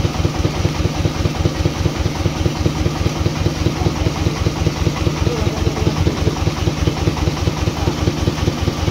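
An engine idling steadily, with an even rapid pulse of about five or six beats a second.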